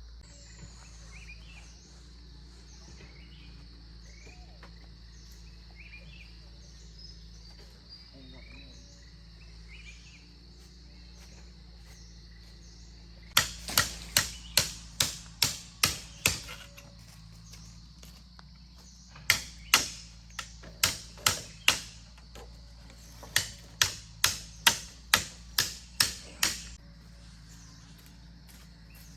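Steady insect drone with scattered bird chirps, then, about halfway through, three bursts of sharp, loud knocks at about three a second, each burst about three seconds long with short pauses between.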